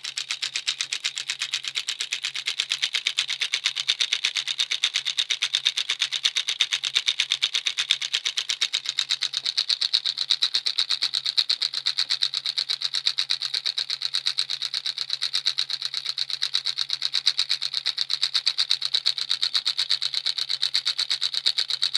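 Small home-built 12 V electromagnet engine running, its mechanism clicking rapidly and evenly with each magnet pulse, over a faint low hum.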